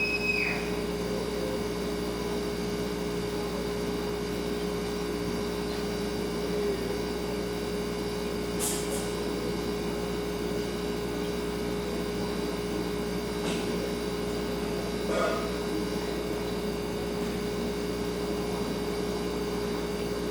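Refrigerator humming steadily, with a few light clicks, the clearest about fifteen seconds in.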